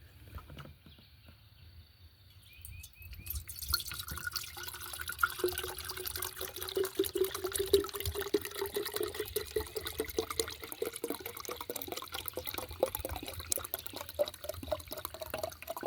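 Liquid bee feed poured into a jar feeder, starting a few seconds in; the pitch of the filling rises steadily as the jar fills.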